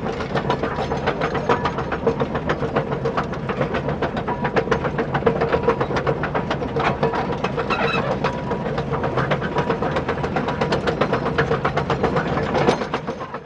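Toy RC construction vehicle running: a steady motor and gear hum with fast, dense rattling clicks, fading away at the very end.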